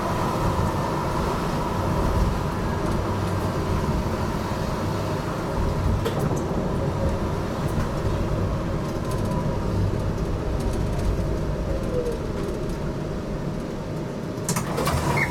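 Running noise inside a GTL8 tram: a steady rumble of wheels on rails with a motor whine whose pitch falls gently toward the end as the tram slows. A few sharp knocks come just before the end.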